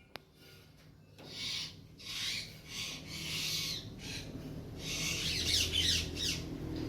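Large parrots giving harsh, raspy screeching calls in several noisy bursts. The first comes about a second in, and the longest, loudest stretch is near the end. A single sharp click sounds right at the start.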